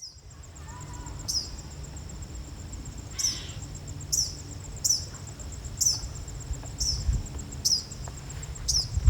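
Eastern kingbird giving a series of short, sharp calls with a falling tail, about one a second.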